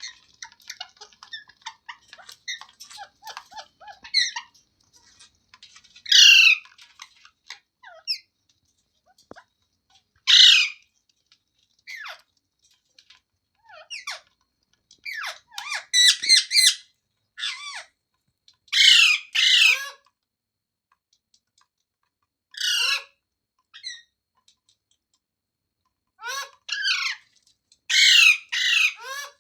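Pet Indian ringneck parrot calling: soft, quick chattering for the first few seconds, then loud harsh squawks of about half a second each, repeated every few seconds, some in quick pairs.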